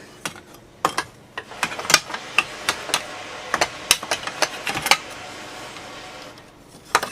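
A run of irregular clicks and knocks as a part is handled and fitted back onto a chainsaw during reassembly, thickest in the middle and tailing off, with a couple more near the end.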